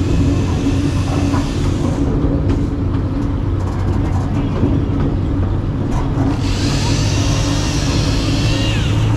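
Park miniature train running steadily with a continuous low engine drone. Near the end a high squeal from the running gear sounds for a couple of seconds, then falls away.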